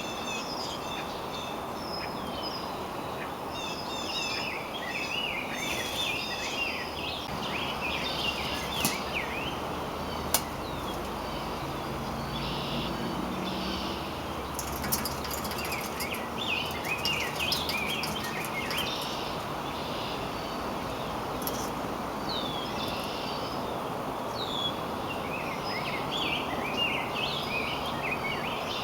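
Wild songbirds chirping and twittering in bursts over a steady low rushing background noise, with a sharp click about ten seconds in.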